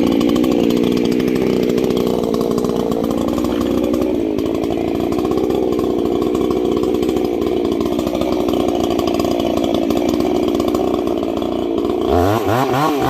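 The 350 gas chainsaw cutting under load, its engine note steady with a slowly wavering pitch. Near the end it is revved up and down several times off the cut.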